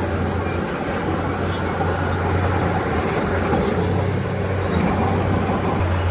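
Komatsu D31P crawler bulldozer's diesel engine running steadily under work, a constant low drone with mechanical noise over it.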